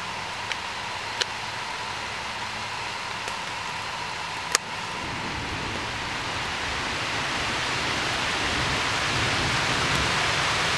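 Steady rain falling, growing gradually heavier, with a few sharp clicks, the loudest about halfway in.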